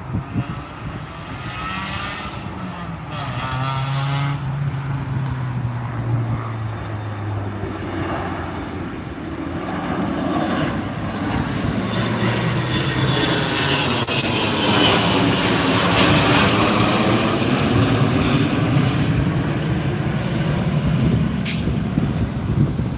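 Jet aircraft taking off, the engine noise building with a sweeping whoosh as it passes and reaching its loudest about two-thirds of the way through.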